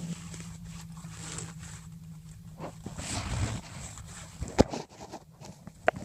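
Fabric rustling and handling as a seat cover is pulled back from a truck seat, with sharp clicks or knocks about four and a half and six seconds in. A steady low hum sits under the first half.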